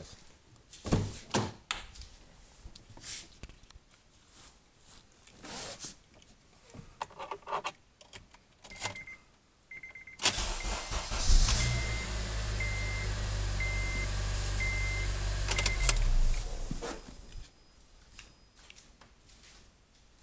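Clicks and knocks, then a chime beeping about once a second. About ten seconds in, an Acura TSX engine cranks briefly on a supercapacitor bank standing in for the lead-acid battery, catches and flares up, then idles steadily for about five seconds before it is switched off.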